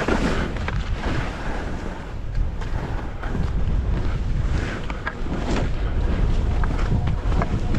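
Wind rushing over the microphone of a skier moving downhill, with the hiss of skis running through snow and a few sharp clicks scattered through it.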